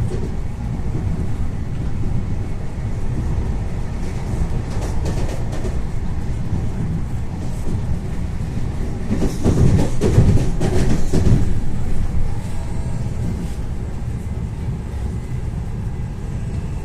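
Ivolga 4.0 electric train running along the track, heard from inside the car: a steady low rumble of wheels on rails. A few seconds past the middle it gets louder for about three seconds, with a run of knocks.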